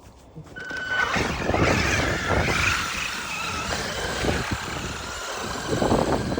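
Traxxas radio-controlled car driving through snow. From about a second in, its electric motor whines, rising and falling in pitch as the throttle changes, over the noise of the tyres churning snow.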